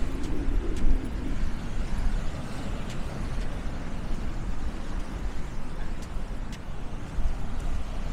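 Steady low rumble of road vehicle noise, with a few faint clicks.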